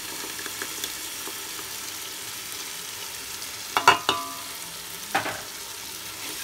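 Onion-tomato masala sizzling steadily in oil in a metal pot as yogurt is added. A steel ladle knocks against the pot a few times with a short metallic ring, loudest just under four seconds in.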